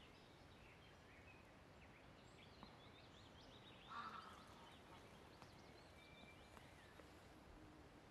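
Faint bird calls in a quiet outdoor ambience: a scatter of short high chirps, with one louder, lower call about four seconds in and a brief whistled note a couple of seconds later, over a soft steady hiss.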